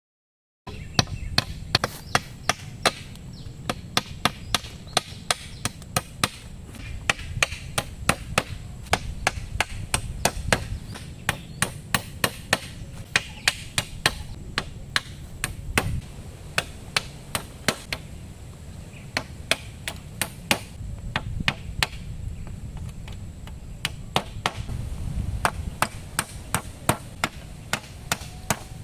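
Wood being chopped with a blade: a long run of sharp chops, about two to three a second, with a few short pauses.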